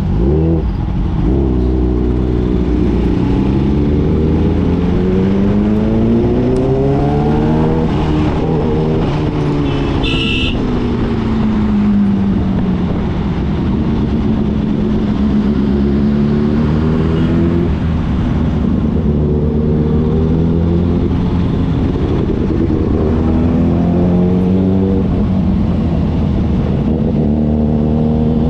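Motorcycle engine running on the road, its pitch climbing as it accelerates and dropping as it eases off, several times over, with a steady low rumble underneath. A brief high tone sounds about ten seconds in.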